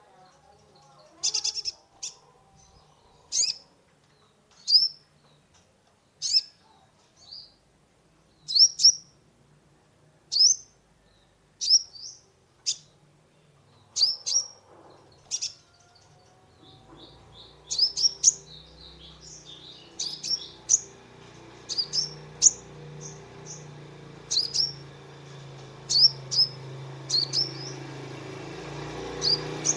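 Kolibri ninja sunbird singing: sharp, high chirps with a quick downward hook, roughly one a second, coming faster in the second half. A low steady hum rises underneath from about halfway.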